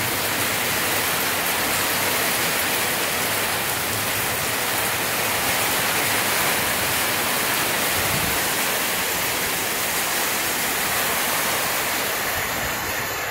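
Heavy rain downpour, a steady loud rushing ruckus.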